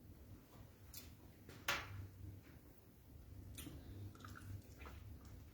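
Quiet eating sounds of beans and fried plantain being chewed: a few scattered soft clicks and smacks, the loudest a little under two seconds in.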